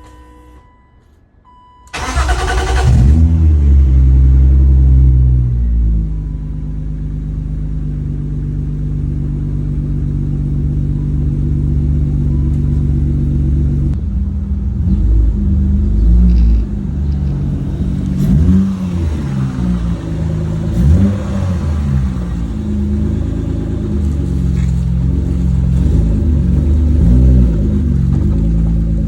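BMW S52 straight-six in an E30, breathing through a Bimmerworld exhaust, cold-starting: it catches about two seconds in and runs at a high fast idle, then settles to a lower, steady idle. From about halfway it is blipped with a series of short revs that rise and fall.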